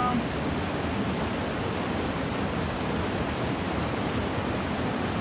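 Steady rush of flowing water, an even noise that does not break or change.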